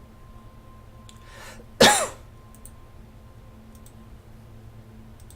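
A single sharp cough about two seconds in, just after a short intake of breath.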